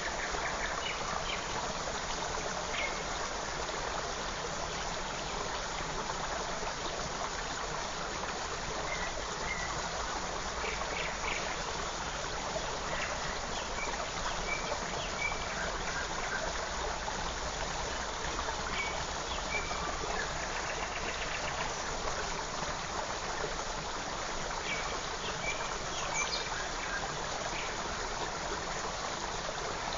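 Forest creek flowing with a steady rush of water, with small birds giving brief high chirps scattered throughout.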